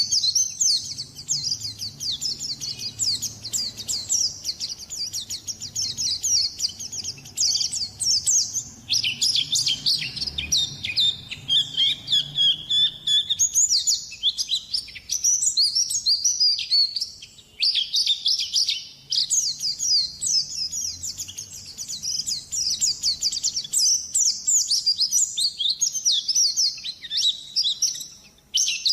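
White-eye (pleci) singing a long, fast, high twittering song almost without a break, with only a few brief pauses.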